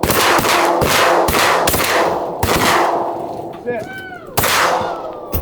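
A volley of shotgun blasts from several hunters firing at ducks: about eight shots in quick succession, each ringing out as it fades, with a longer gap before the last two.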